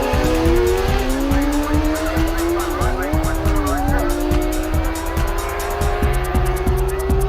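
Drag-racing motorcycle engines climbing slowly in pitch as they pull away, over background music with a steady beat.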